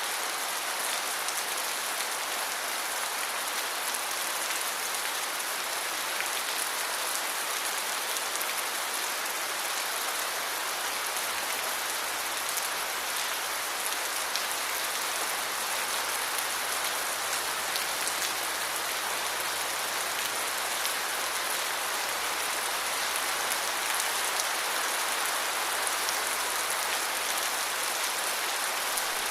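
Steady rain falling, with fine ticks of single drops striking throughout.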